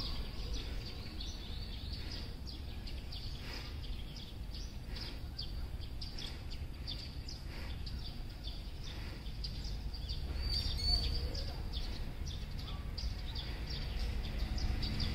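Small birds chirping, short high notes coming several times a second, over a steady low outdoor rumble; one louder chirp stands out about eleven seconds in.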